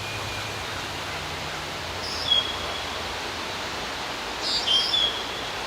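Steady outdoor hiss with two short, high bird chirps, one about two seconds in and another near five seconds.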